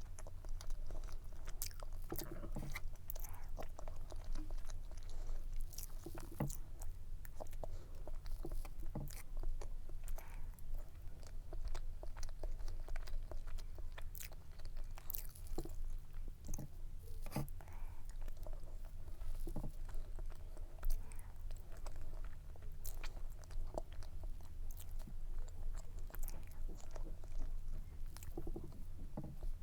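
Close-miked chewing and biting of cake, with scattered small crunches and wet clicks from the mouth.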